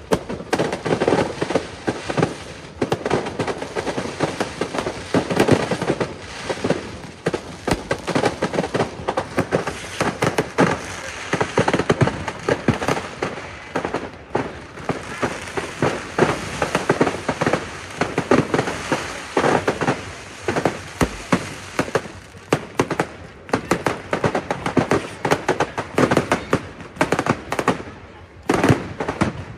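Aerial fireworks in a display going off in a dense, continuous barrage of bangs and crackles, several a second, with no let-up.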